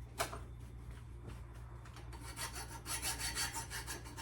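Sandpaper rubbed back and forth over the rusty steel of an old axe head; the quick, scratchy strokes start about two seconds in and come several a second.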